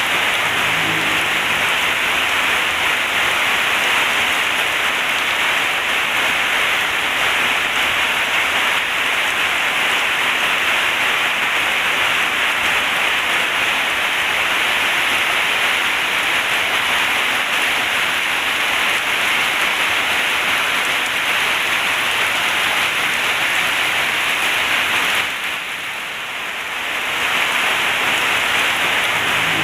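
Heavy rain pouring steadily on a zinc roof, a dense even hiss. About 25 seconds in it briefly eases, then returns to full strength.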